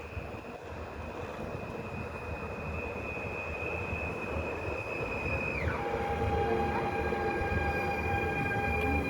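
Train running by with a rumble that grows slowly louder, and a high steady whine that drops sharply in pitch about five and a half seconds in, then holds at the lower pitch.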